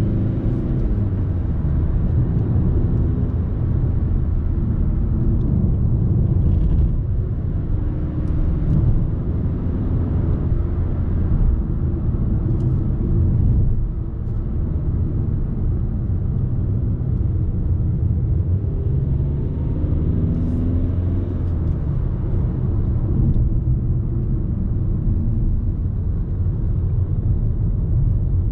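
Audi A3 30 TDI's 1.6-litre four-cylinder turbodiesel engine running while driving, over a steady road rumble. The engine note rises and falls, and the level dips briefly about halfway through.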